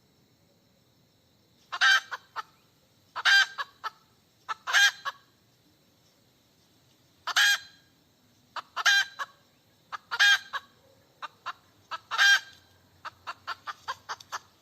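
Hen cackling: loud drawn-out squawks about every second and a half, each with a few short clucks around it, ending in a quick run of short clucks. The uploader takes it for a hen calling for a mate.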